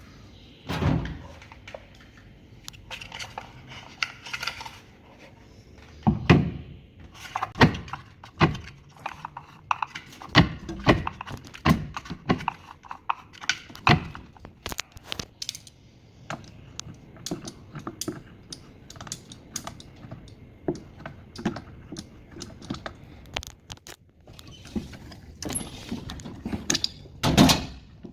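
Irregular clicks, knocks and metallic clinks of hand tools and parts being handled during reassembly of a washing machine.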